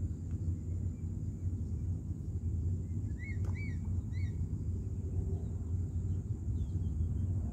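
Steady low rumbling noise, with a bird giving four short chirps about three to four seconds in.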